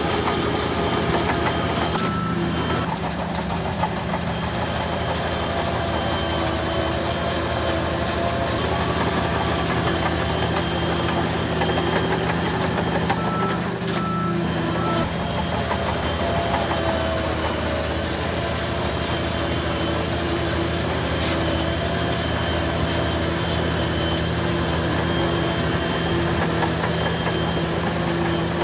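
Heavy diesel earthmoving machinery, bulldozers, running steadily, with a reversing alarm beeping briefly a few times.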